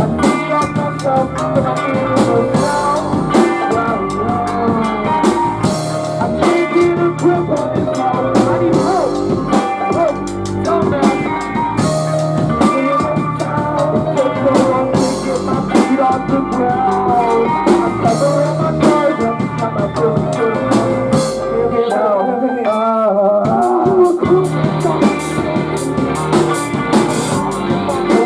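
Post-hardcore band playing live: distorted electric guitars over a full drum kit. The bass and drums drop out for about a second and a half a little past twenty seconds in, leaving a wavering guitar line, then the full band comes back in.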